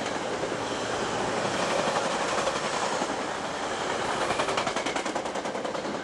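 Passing train, its wheels clattering over the rail joints in a rapid, even run of clicks over a steady loud rumble.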